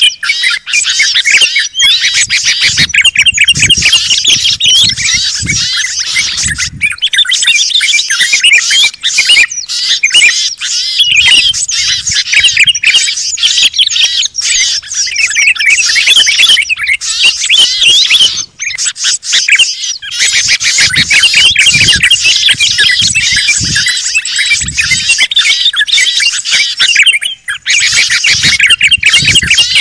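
Loud, dense chorus of many small songbirds chirping, trilling and chattering at once, a mixed bird-lure (pikat) call track. Brief low rumbles sit underneath now and then.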